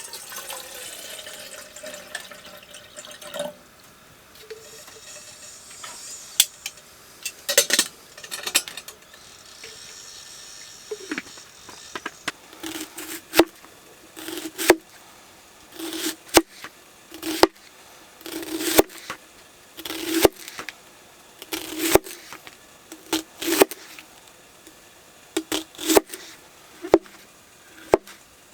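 Water poured into a pot at the start. Later, from about halfway, a knife chops on a cutting board in an uneven run of sharp knocks, about one or two a second.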